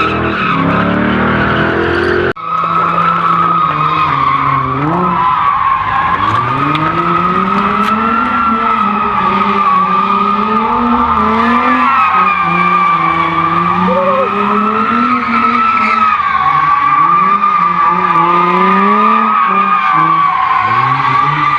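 Car tires squealing without a break as a car spins donuts. The engine revs rise and fall over and over under the squeal.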